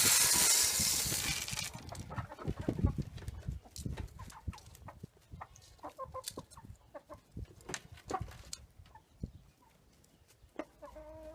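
Domestic chickens clucking in short, scattered calls, mixed with small knocks and clicks. A loud rushing hiss fills the first second and a half, with low rumbling of wind on the microphone.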